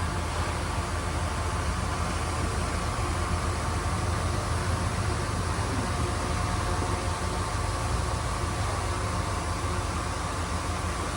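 Heavy diesel machinery, a bulldozer or dump truck at work, running steadily with a constant low engine hum and no clear change in revs.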